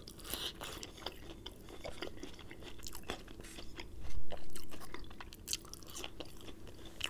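Close-up crunching and chewing of crispy fried batter: a bite into a battered onion ring, then crisp fried-chicken skin being picked off and chewed, with many small crackling crunches. A louder dull thump about four seconds in.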